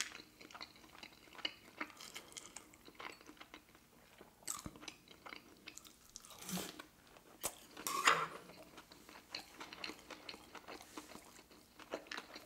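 Close-miked eating sounds: a bite into a piece of sushi roll and chewing, with small wet mouth clicks and a few louder crunches near the middle.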